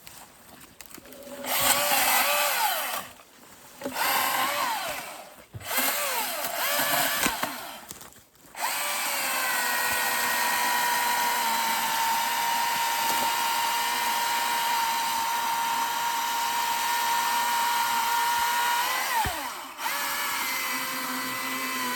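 Chainsaw revved in three short bursts, then held at a steady high pitch for about ten seconds while cutting through fallen timber. It drops briefly near the end and revs up again.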